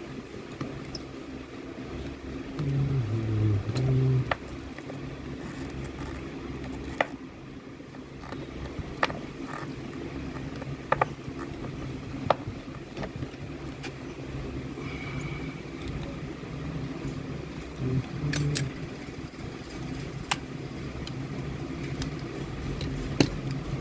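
Electric fan running with a steady low whir, with a scattered series of short sharp clicks over it.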